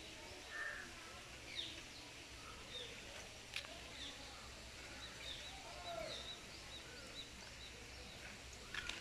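Birds chirping faintly in the background, with a run of short high calls a little past the middle, over a low steady hum. A single sharp click sounds about three and a half seconds in.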